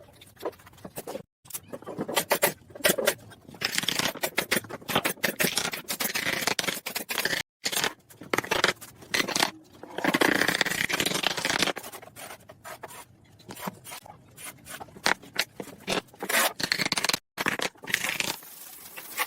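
Irregular scraping strokes, broken three times by sudden drops to silence.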